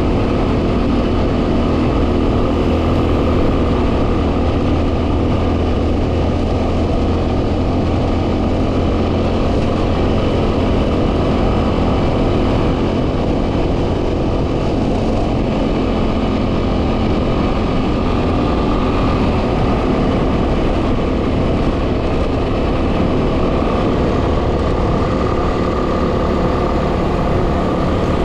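Yamaha WR250R's single-cylinder four-stroke engine running at a steady cruising speed, under heavy wind buffeting on the microphone.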